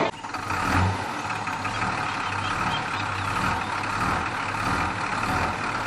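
Heavy vehicle's engine running steadily, with a low drone.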